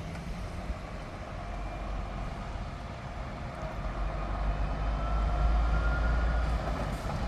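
Heavy truck diesel engine rumbling as a truck drives past, getting louder about two-thirds of the way in, with a faint rising whine.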